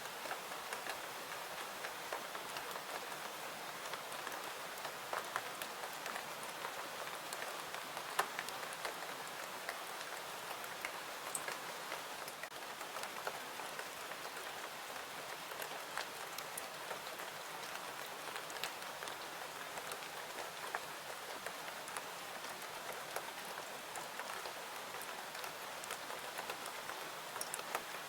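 Steady rain falling, mixed with a wood fire crackling in scattered sharp pops.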